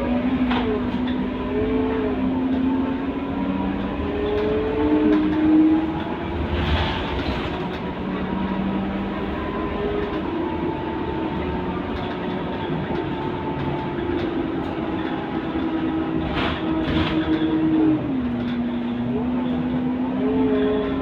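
Scania K230UB Euro V city bus running, its engine and driveline giving a steady whine that steps up in pitch about five seconds in as the bus gathers speed, holds, then drops back near the end. A few short knocks or rattles come through along the way.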